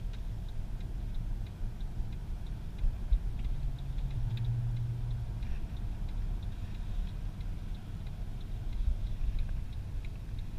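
Mercedes C63 AMG's V8 running at low revs under a low road rumble, with a brief steadier engine note about halfway through. Light, evenly spaced ticking sounds about three times a second throughout.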